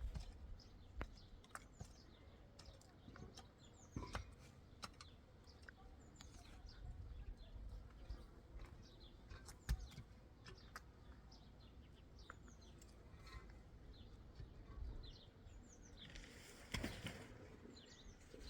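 Faint birdsong: many short, quick chirps from small birds, with scattered light clicks and knocks and a brief louder rustle near the end.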